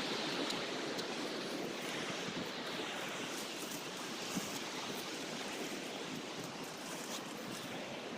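Ocean surf washing in a steady, even rush of noise, with a few faint ticks over it.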